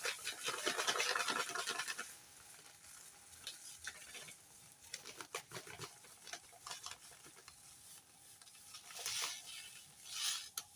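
Light handling noises in a kitchen: scratching, rustling and small taps as containers and ingredients are moved about. The sounds are busiest in the first couple of seconds, then come in short bursts near the end.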